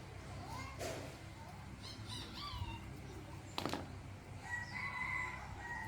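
A rooster crowing, one long held call near the end, after shorter chicken calls in the middle, with two sharp knocks. A steady low hum runs underneath.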